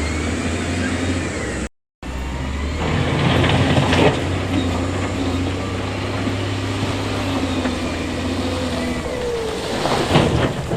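Heavy diesel engine of construction equipment running steadily. It cuts out completely for a moment about two seconds in, and there are two louder, noisier surges, one around three to four seconds in and one near the end.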